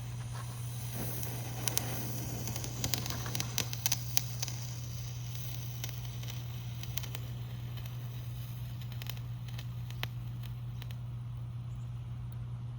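Small consumer firework crackling: a quick flurry of sharp pops and crackles for a few seconds, then scattered single pops, over a steady low hum.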